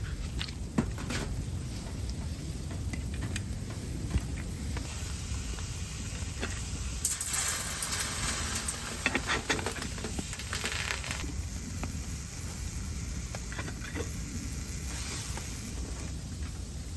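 Snow melting in a pot on a hot wood stove, sizzling and hissing, with scattered small clicks. The hiss and crackle grow louder for a few seconds in the middle.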